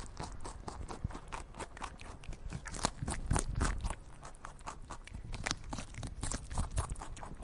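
Dense, irregular crackling and clicking, many sharp clicks a second with a few louder ones.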